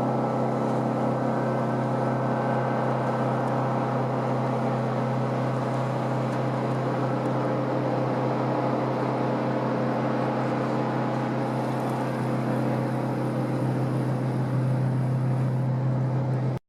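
A passing boat's engine running with a steady low drone.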